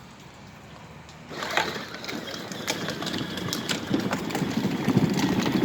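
Children's electric ride-on toy car starting to move about a second in, its motor running and its plastic wheels rolling over the ground with a steady crackle that grows louder.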